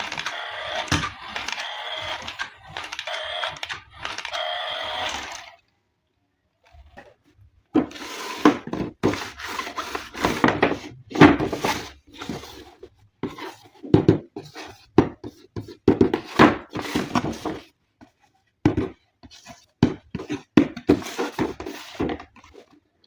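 A steady mechanical buzzing for about five seconds, then a pause, then a long run of irregular clicks, knocks and crackles of plastic toy parts and packaging being handled.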